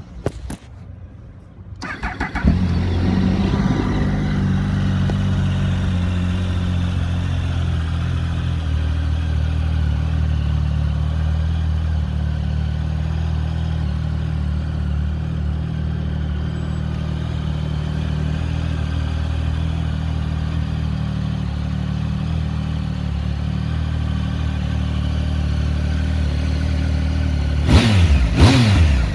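Triumph Speed Triple R 1050's three-cylinder engine, breathing through Arrow aftermarket exhaust cans, starts about two seconds in and settles into a steady idle. Near the end the throttle is blipped a few times in quick revs that rise and fall.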